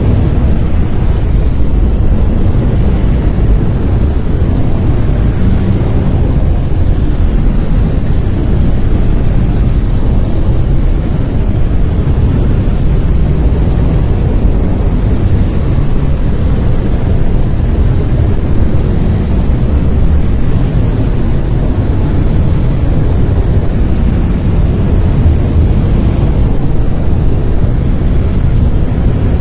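Steady brown noise: a loud, even rumbling hiss weighted heavily toward the low end, with no changes.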